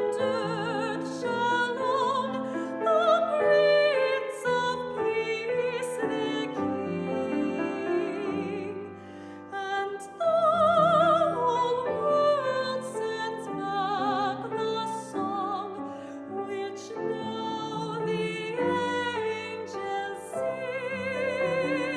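Soprano singing a slow classical art song with wide vibrato, accompanied by piano.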